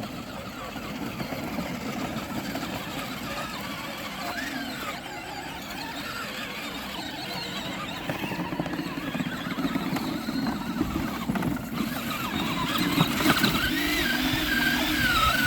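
Electric motor of a child's battery-powered Tonka ride-on truck running as it drives through mud, getting louder toward the end with a wavering high whine as the truck bogs down.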